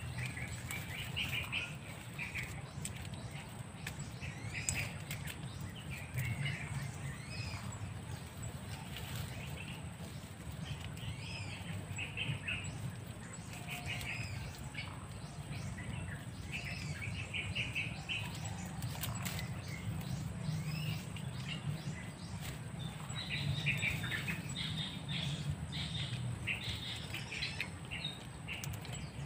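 Wild birds chirping, with many short repeated calls throughout, over a steady low rumble.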